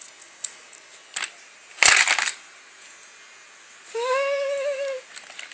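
Toy-handling noises: a few light clicks, then a short rustling crunch about two seconds in. About a second later, a child's voice holds one steady note for about a second.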